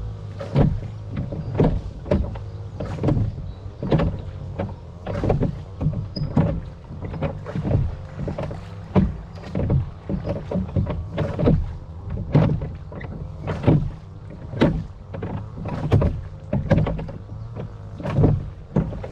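Oars of a rowing boat dipping and splashing in the river, a stroke about once a second, over a low steady rumble.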